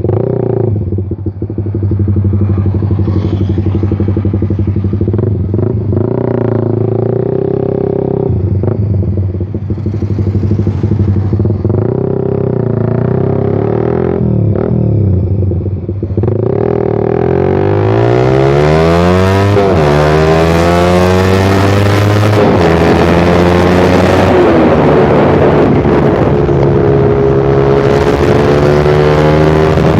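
Suzuki Satria FU injection motorcycle's single-cylinder engine through a Pro Liner aftermarket muffler with the dB killer removed, ridden on the road. It runs at moderate revs with a few dips for the first half. From about sixteen seconds in it is revved hard: the pitch climbs in repeated rising sweeps with drops between them, gets louder, and holds high near the end.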